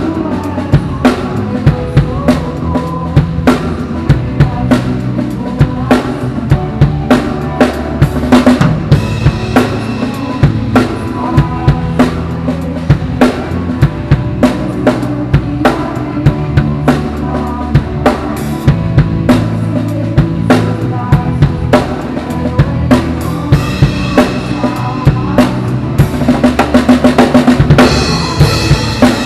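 Drum kit played along to a recorded song: regular kick and snare hits with cymbals over the song's bass and keys, and a fast fill of rapid hits near the end.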